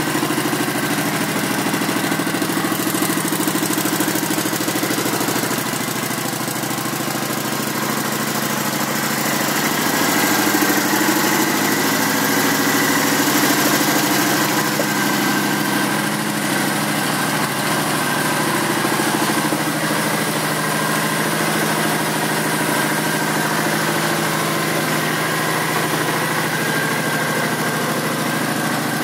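Kawasaki Vulcan 900 Classic's 900cc fuel-injected V-twin idling steadily, a little louder for a few seconds about ten seconds in.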